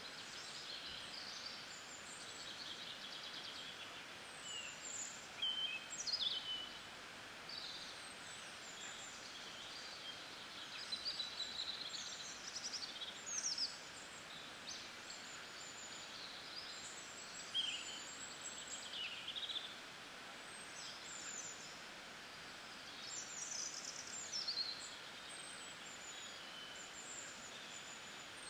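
Birds chirping and singing in many short, high phrases, several falling in pitch, scattered throughout over a steady background hiss.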